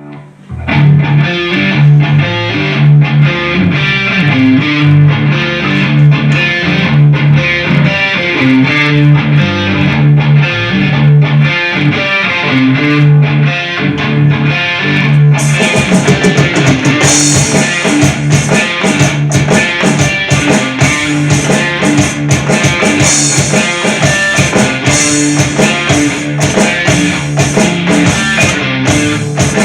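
Hard rock with a repeating electric guitar and bass riff and drums. About halfway through, cymbals come in and the band's sound gets fuller.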